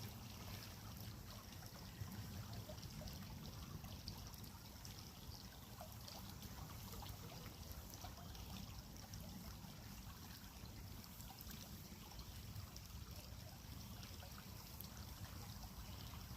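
Creek water trickling and flowing steadily, faint.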